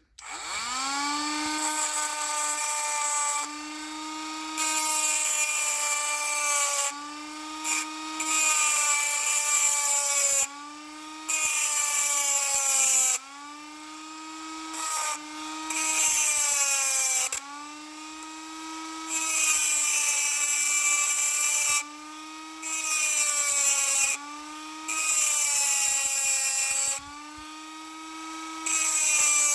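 Cordless Dremel rotary tool with a chainsaw sharpening stone, spinning up and then grinding the cap off an LS truck fuel injector. The high motor whine dips in pitch and recovers as the stone is pressed on and eased off, with about a dozen loud hissing grinding passes of a couple of seconds each.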